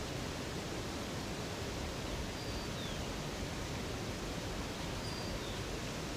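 Steady rushing of a river or waterfall. Twice a faint, high bird call cuts in over it, a short level whistle followed by a falling note: about two and a half seconds in and again about five seconds in.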